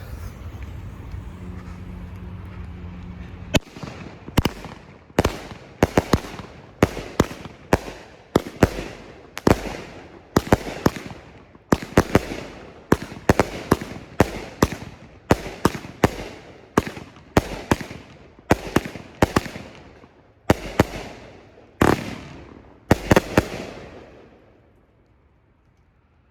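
Nishiki firework cake firing: after a few seconds of steady background noise, a long run of shots begins about three and a half seconds in, roughly one to two a second, each trailing off in a fading hiss. The barrage stops about two seconds before the end.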